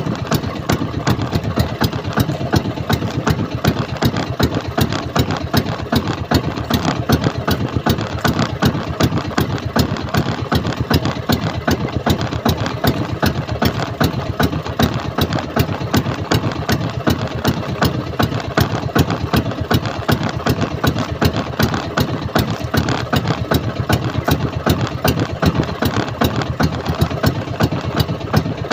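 Small fishing boat's engine running steadily at low speed, with a fast, even chugging beat.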